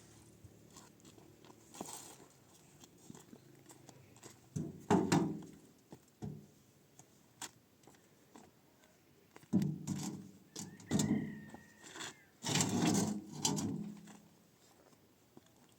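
Handling noises: dull thumps and knocks with rustling, in clusters about five, ten and thirteen seconds in.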